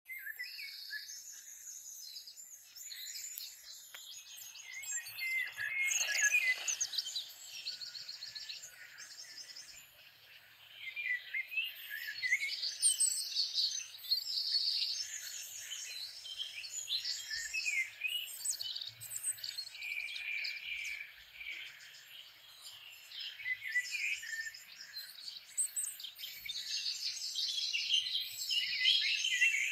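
Songbirds chirping and singing over one another in a continuous chorus of short calls and rapid trills.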